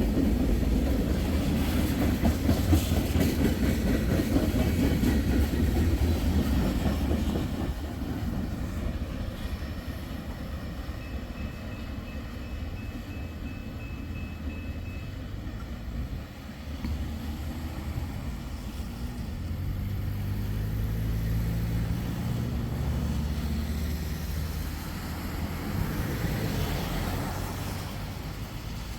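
Freight train cars rolling past on the rails, loudest at first and dropping off after about seven seconds as the last cars go by.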